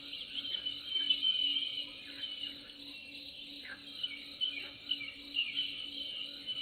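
Birds chirping and twittering in many short, quick notes over an insect chorus, with a low pulsing call repeating about three times a second.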